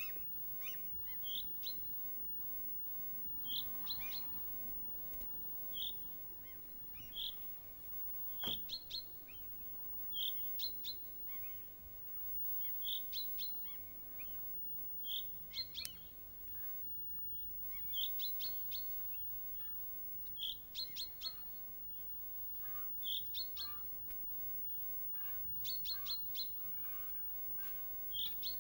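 A bird singing short phrases of a few quick high notes, repeated every two to three seconds.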